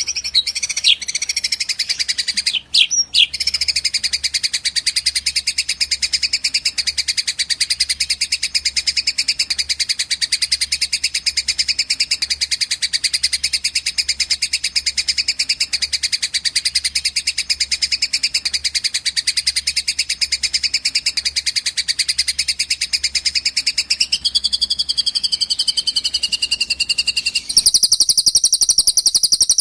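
Recorded songbird song played for bird training: a dense, fast, unbroken chattering trill, high-pitched. About two seconds before the end it cuts abruptly to a different, higher song.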